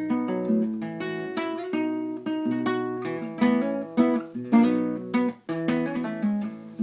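Acoustic guitar with a capo strumming a G-to-A chord progression, a chord struck about every half second to second and left to ring.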